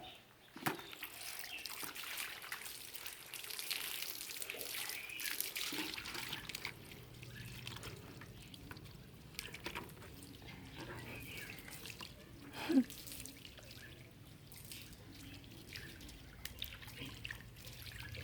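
Water splashing and dripping during a car wash, with many small scattered clicks and splats, busiest in the first few seconds and lighter after that.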